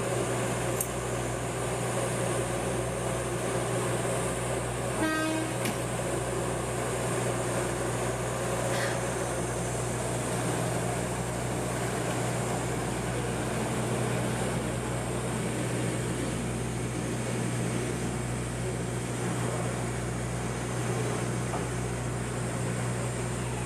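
Kominato Railway trolley train running, heard from on board: a steady low drone with constant running noise from the rails. About five seconds in, the train's horn gives a short toot.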